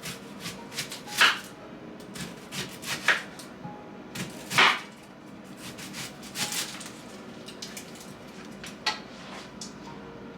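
Knife cutting an onion on a cutting board: irregular knocks of the blade on the board, a few louder strokes with short scraping between them.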